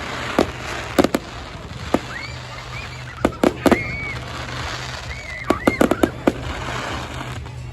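Fireworks going off: sharp bangs in quick clusters, several times over. Short high whistling tones rise between the bangs.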